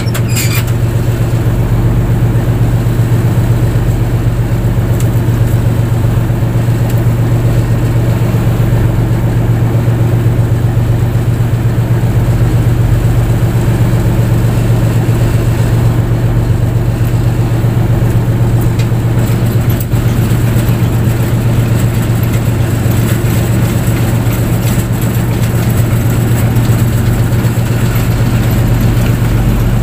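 Fishing boat's engine running steadily, a constant loud low drone with no change in speed.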